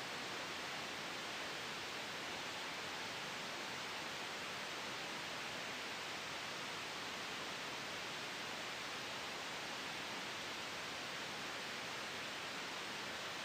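Steady white noise for sleep: an even, unchanging hiss with no gusts, breaks or other sounds.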